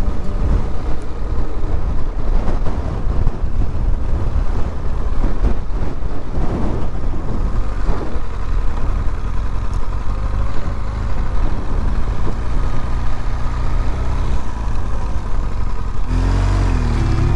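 Motorcycle under way: the BMW R1200GS's boxer-twin engine running, mixed with wind and road noise. Background music comes back in near the end.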